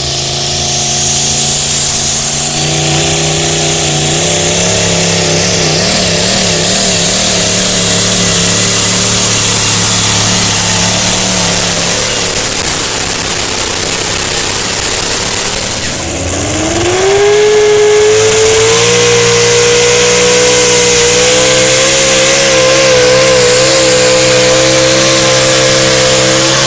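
Competition pulling truck's engine running loud at high revs under load, its pitch wavering. About sixteen seconds in it drops briefly, then climbs again and holds a steady high pitch.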